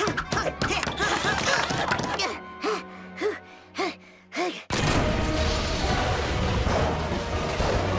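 Cartoon soundtrack music with sound effects: a run of short, bouncy repeated tones, then a sudden switch a little past halfway to a loud, continuous rush of noise.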